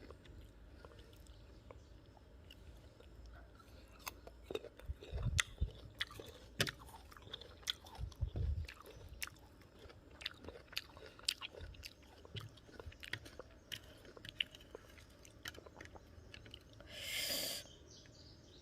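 Close-up chewing of crisp raw guava: a steady run of small crunches and crackles as the fruit is bitten and chewed. Near the end there is a short, louder rush of noise lasting about half a second.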